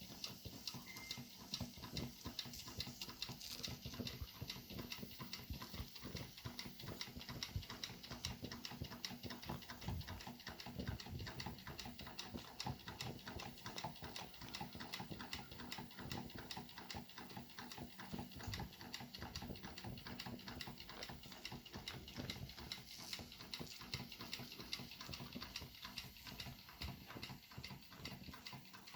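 Small model steam engine heating up over its fuel fire, with faint, rapid, irregular crackling and ticking from the firebox and boiler as the water comes up to steam.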